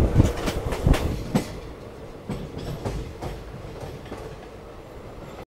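Moving passenger train's wheels clattering over rail joints, heard from an open coach door. A quick run of heavy knocks comes in the first second and a half, then settles into a lighter, steady rumble with occasional clicks.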